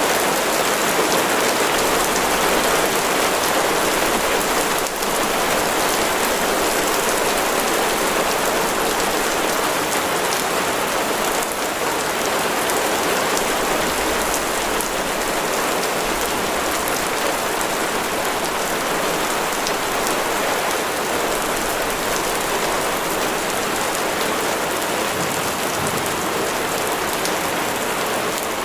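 Steady heavy rain falling on a surface, a dense even hiss of many drops.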